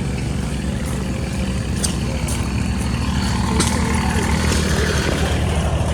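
Old stationary gas engines running together, a steady low pulsing with a few sharp clicks.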